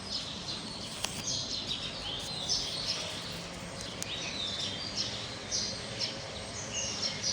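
Several small birds chirping and twittering, with repeated short high calls and trills, over steady background noise.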